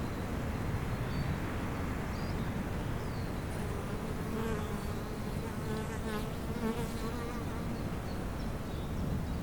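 A bee buzzing as it flies close by: a steady hum that comes in about three and a half seconds in and fades out near the end. Small bird chirps and a low outdoor rumble run underneath.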